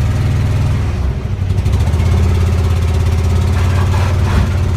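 Air-cooled VW Beetle flat-four engine running through a new header exhaust and muffler, heard from inside the car as it drives off in gear; the engine sound dips briefly about a second in, then picks up again. The engine is running on only three cylinders, which the owner put down to a plug wire left off the distributor.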